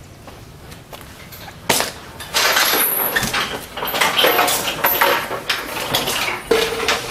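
A sharp metallic knock, then a run of irregular metal clanking, clattering and scraping, like tools and car parts being handled in a garage.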